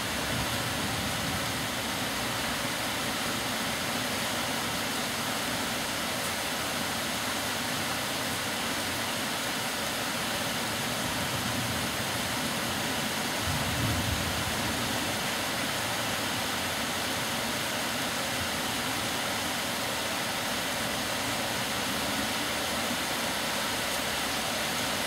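Heavy rain falling steadily with an even hiss, with a brief low rumble about halfway through.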